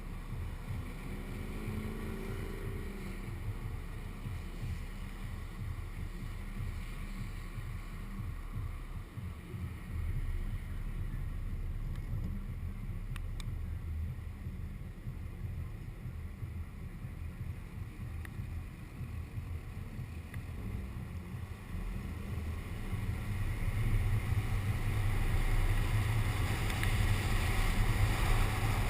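Wind buffeting a window-mounted action camera on a moving car, with a low rumble of road noise. It grows louder in the last few seconds.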